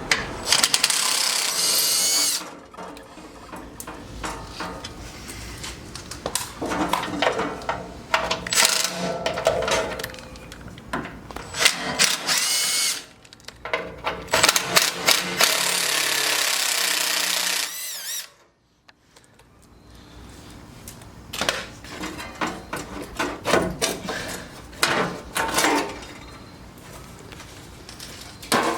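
Air-powered driver spinning out the small Allen bolts of a Jeep JK inner fender in several bursts, the longest about three and a half seconds, with a wavering whine as each bolt turns. Between bursts there are clinks and clatter of bolts and parts being handled.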